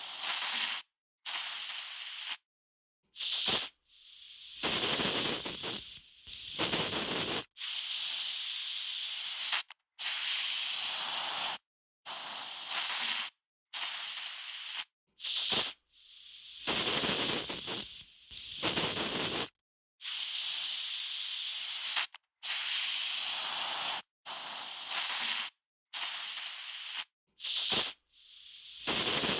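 Aerosol spray can hissing in a series of short sprays, each half a second to two seconds long, starting and stopping abruptly with brief silent gaps between them.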